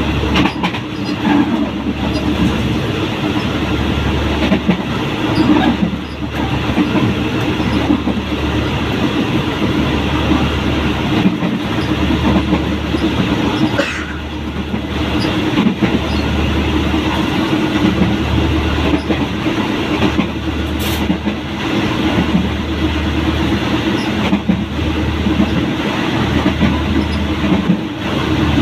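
Diesel-hauled passenger train running at speed, heard close beside the locomotive: a steady rush of running noise with a low engine drone, and the wheels knocking now and then over rail joints.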